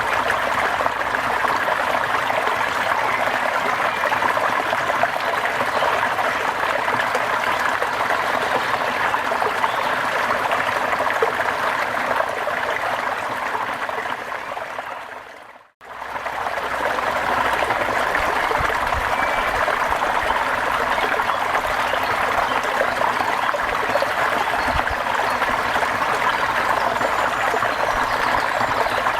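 Steady rain falling, an even hiss of water. About halfway through it fades out to silence for a moment and fades straight back in, a loop point in the recording.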